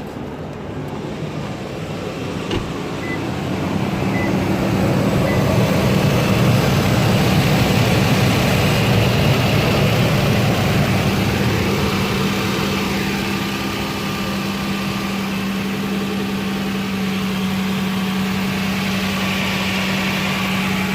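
Toyota 1GR-FE V6 engine idling steadily, louder for several seconds in the middle and then settling. It carries the puffing of an exhaust leak on the left side of the engine, from the manifold or the exhaust pipe below it.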